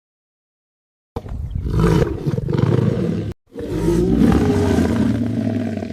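A large wild animal roaring twice: two long, low roars, the first starting about a second in and the second following a brief break.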